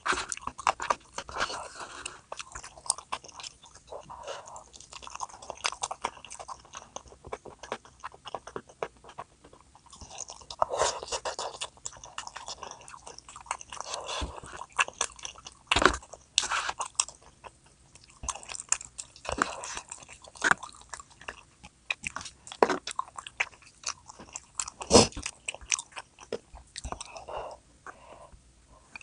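A person chewing and biting food close to the microphone: wet mouth clicks and smacks with some crunchy bites, a couple of them sharper and louder.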